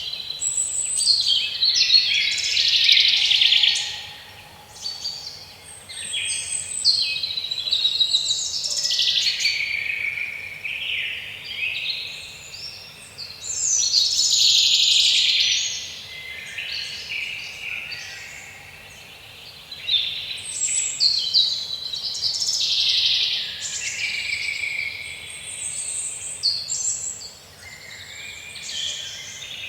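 Several songbirds singing in woodland, overlapping phrases of chirps and trills that come and go every few seconds, over a faint steady background hiss.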